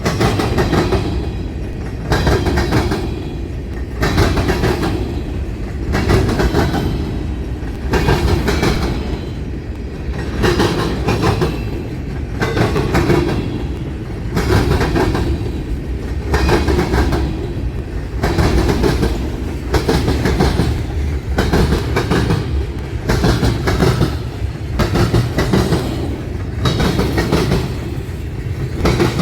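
Freight train cars rolling past, their wheels clattering over the rail joints and diamond crossing in a steady clickety-clack about once a second over a continuous low rumble.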